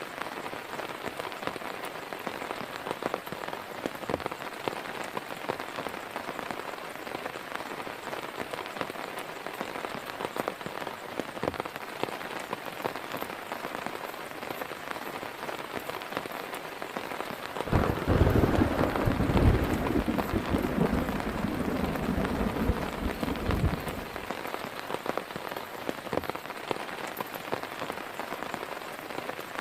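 Heavy rain falling steadily. About two-thirds of the way through, a loud, deep rumble of thunder sets in, lasts about six seconds and stops.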